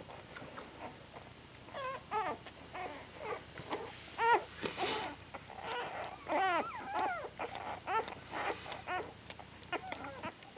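Eight-day-old newborn puppies squeaking and crying: a string of short, high-pitched calls starting about two seconds in.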